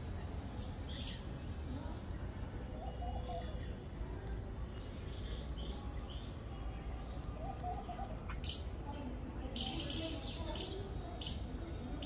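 Small birds giving short, high chirps at scattered moments, with a cluster of quick calls in the second half, over a steady low rumble.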